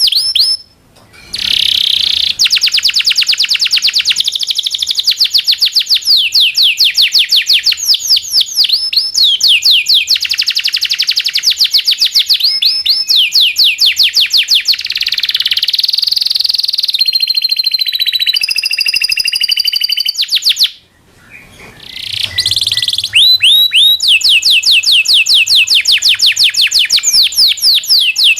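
Local canary singing a long song of fast rolling trills, rapid runs of repeated downward-sweeping notes, with a few held whistled notes midway. There is a brief pause near the start and another about three-quarters through.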